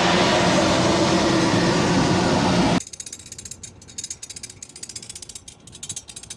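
Steady engine noise that cuts off abruptly about three seconds in, leaving faint irregular clicking.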